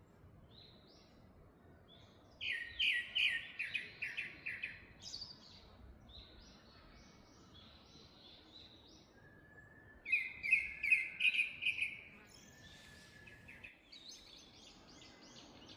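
Wild forest birdsong: a loud song of rapid repeated notes comes twice, each bout lasting about two and a half seconds, the first a few seconds in and the second about two-thirds of the way through. Fainter chirps from other birds sound in between.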